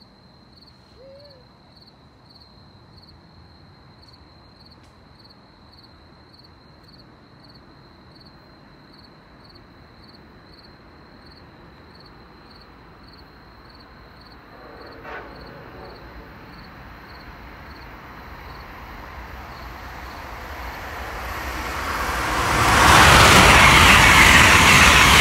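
Amtrak passenger train approaching and passing through the station at speed: a rush of wheels on rail that builds from about two-thirds of the way in and is loud over the last few seconds.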